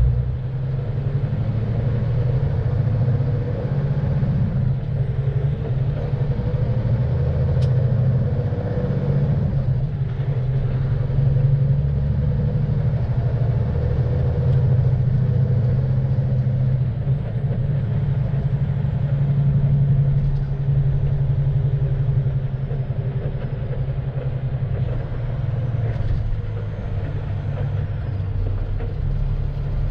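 Heavy rotator tow truck under way, its diesel engine and road noise making a steady low rumble while it tows a tractor-trailer.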